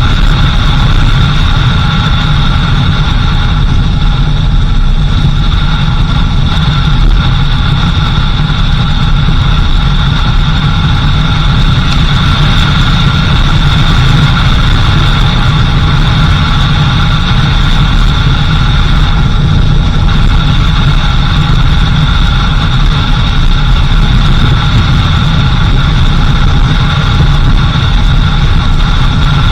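Off-road vehicle driving on a dirt road, heard from on board: a steady engine and road rumble with a constant high-pitched tone over it.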